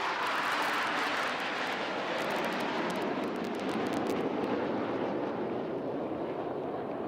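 Jet roar from a formation of three Tejas light combat aircraft after a low flypast, a steady rushing noise that slowly eases as the jets draw away.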